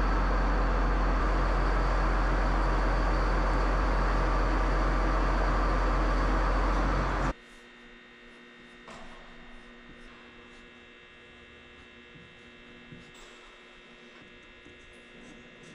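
A loud, steady machine noise with a deep low rumble, cutting off abruptly about seven seconds in. A faint steady electrical hum is left after it.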